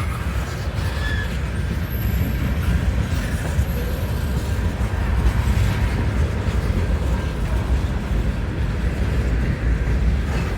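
CN freight train rolling past, a steady low rumble of cars on the rails.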